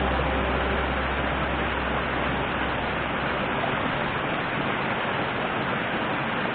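Steady rush of flowing river water, an even hiss with no separate events.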